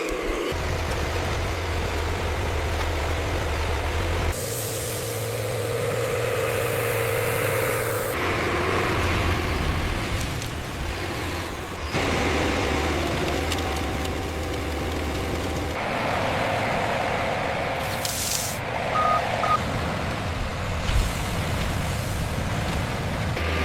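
Heavy diesel vehicle and machinery engines running, in a series of clips that change abruptly every few seconds. Near the three-quarter mark comes a short hiss, then two short beeps.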